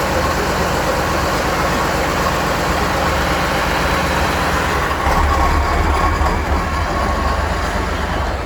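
Heavy off-road trial truck's engine running steadily and loudly, with a deep low rumble that grows heavier from about five seconds in as it comes under more load.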